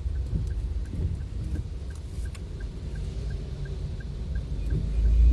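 A vehicle driving through heavy rain: rain noise over a strong low rumble, with a few sharp taps and a faint, even tick about three times a second. The rumble swells near the end.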